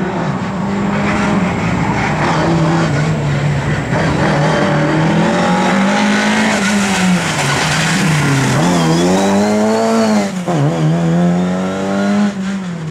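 Rally car engine revving hard, its pitch climbing and dropping again and again as the driver works the throttle and gears, with a sharp drop and recovery about ten and a half seconds in, over tyre skidding noise.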